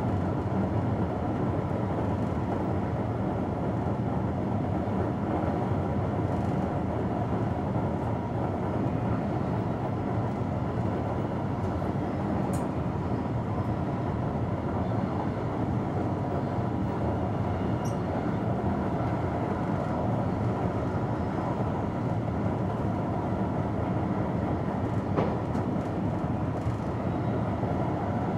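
Steady running noise of an electric train heard from the driver's cab at speed: wheels rolling on the rails. It holds even throughout, with one faint click near the end.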